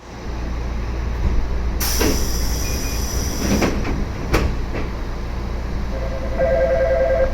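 Inside a Yoro Railway 7700-series electric train car (ex-Tokyu 7700 series): a steady low rumble, with a burst of hissing about two seconds in and a sharp click a little after four seconds. Near the end, a pulsing two-note tone sounds.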